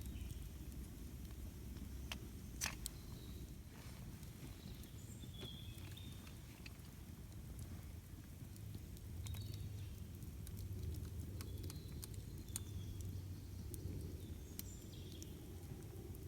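Campfire burning with scattered sharp crackles and pops over a low steady rumble, and short high bird chirps now and then.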